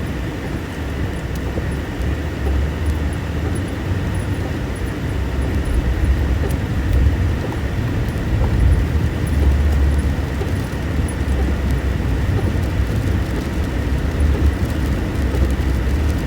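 A car's steady low rumble of engine and road noise while driving.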